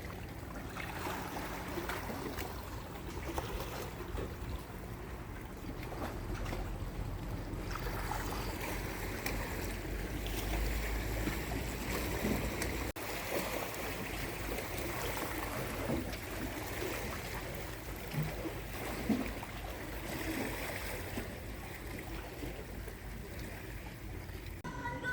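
Sea waves washing with wind, a steady rushing noise and a low rumble, broken by an abrupt cut about halfway through.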